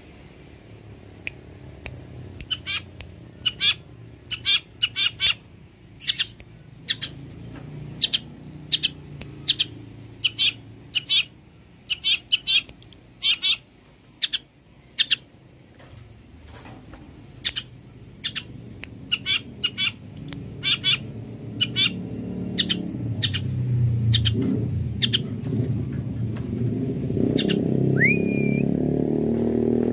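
Long-tailed shrike (cendet) singing: a run of short, sharp, high chattering notes, often in quick doubles and triples, and one gliding whistled note near the end. A low rumble under it grows louder through the second half.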